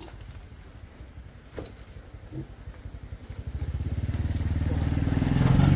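Motorcycle engine drawing near, a rapid pulsing run that grows steadily louder from about three seconds in.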